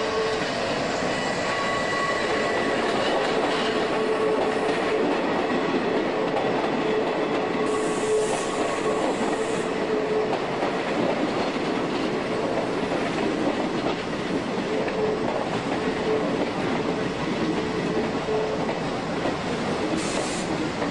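Shin-Keisei 200 series electric train running slowly past at close range: steady wheel-on-rail rumble with clacking over the rail joints. A thin wheel squeal on the curve comes and goes.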